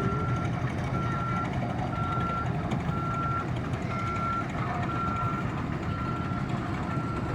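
A vehicle's reversing alarm beeping at an even pace, about one half-second beep each second, over the low steady rumble of a running engine.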